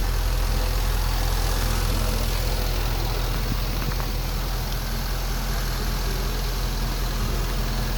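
Supercharged Range Rover engine idling steadily.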